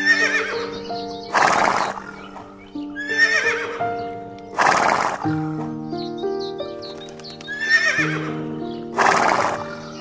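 A horse whinnying three times over background music. Each whinny is a high, wavering call, followed about a second later by a short, noisy burst.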